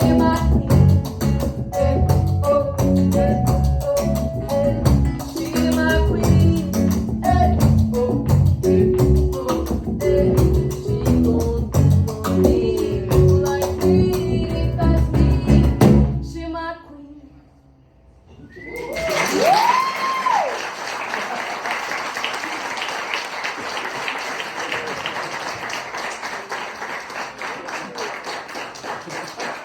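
Live band music with singing, ending about two-thirds of the way in. After a brief near-silence, a small audience applauds and cheers, with a couple of whistles. The applause slowly dies down.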